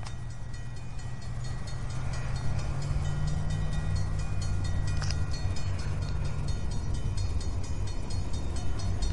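Diesel freight locomotives of an approaching train, a steady low engine rumble and hum. Over it a grade-crossing bell rings rapidly and evenly, about five strikes a second.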